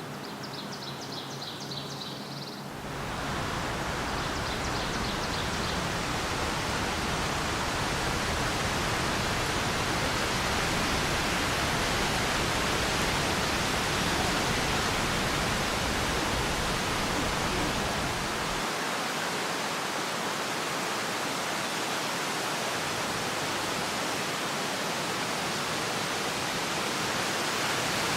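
Steady rushing of running water that comes in suddenly about three seconds in and holds evenly. Before it, a small bird trills faintly for about two seconds.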